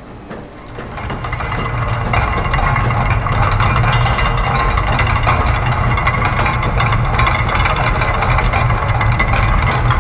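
Layered loops of factory machine sounds forming a dense mechanical texture: a steady low hum under rapid, overlapping ticking and clicking. It swells up from a quieter moment over the first two seconds, then holds steady.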